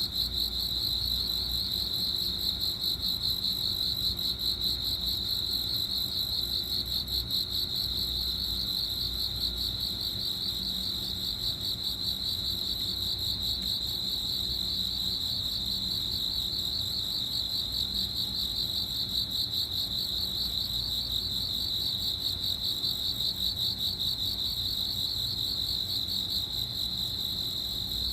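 Crickets chirping in a steady, unbroken high-pitched trill.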